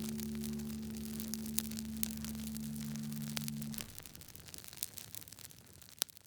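Burning firewood crackling with scattered sharp pops, under a soft held music chord that stops about four seconds in; a louder pop comes near the end.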